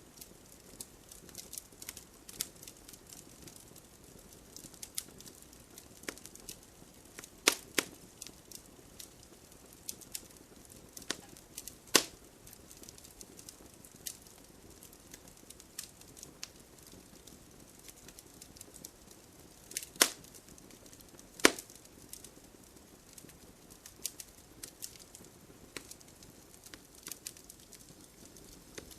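Wood campfire crackling: frequent small, sharp pops over a faint steady hiss, with a handful of louder snaps scattered through.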